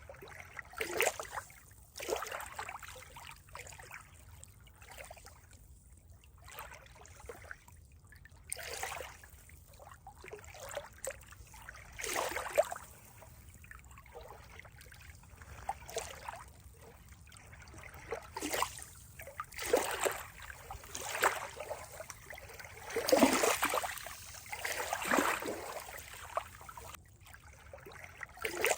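Water trickling and splashing in uneven spurts, with a cluster of louder splashes about three-quarters of the way through.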